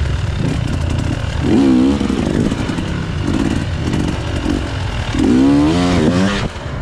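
Two-stroke enduro dirt bike engine, a KTM EXC 300, idling with a steady low rumble. It is blipped up and down in pitch about a second and a half in, and again for longer near the end.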